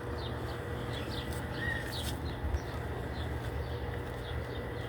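Faint, scattered bird chirps over a steady outdoor background hiss and low rumble.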